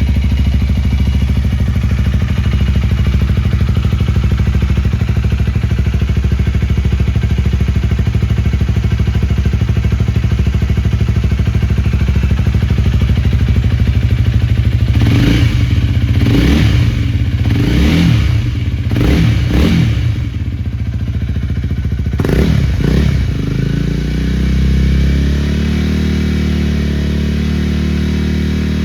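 Honda Rebel 250's single-cylinder engine with a Moriwaki aftermarket exhaust idling steadily, then revved in about five quick throttle blips about halfway through and two more a little later, before settling back to idle.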